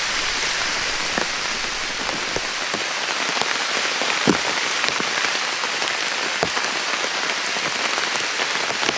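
Heavy rain pattering on a DD Superlight tarp: a steady hiss of rain with scattered sharper drop ticks and a few louder taps.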